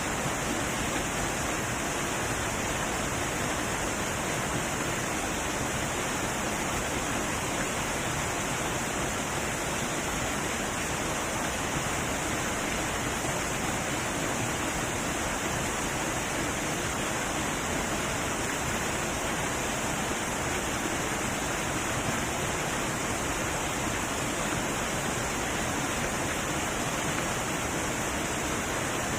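Heavy waterfall pouring steadily, a constant rushing roar of falling water.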